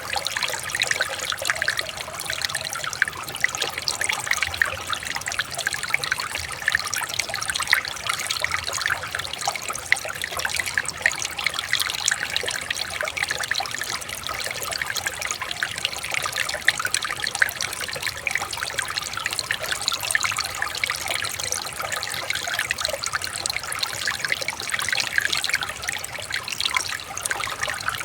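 Water trickling and babbling over stones in a small stream, a steady, even flow with fine splashing detail.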